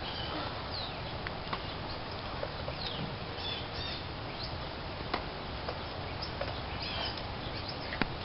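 Small birds chirping in short, high calls over a steady outdoor background hiss, with a few sharp clicks.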